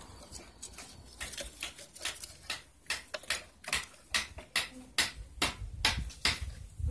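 A series of light, sharp clicks, a few a second and closer together after the first couple of seconds, from hand work on electrical wire and crimp lugs.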